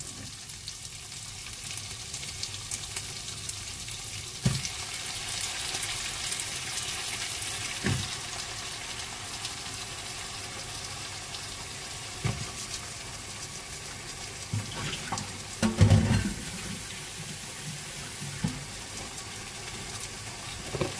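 Okra frying in a pot of chilli paste and anchovies in hot oil: a steady sizzle, with several knocks as pieces go in and the pot is handled.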